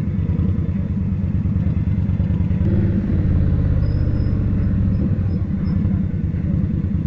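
Indian Scout motorcycle's V-twin engine running under way, a steady low pulsing beat; the engine note shifts about three seconds in.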